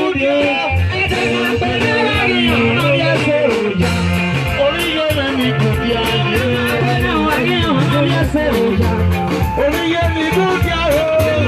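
Live band music with a steady beat, bass and guitar, and a voice singing over it.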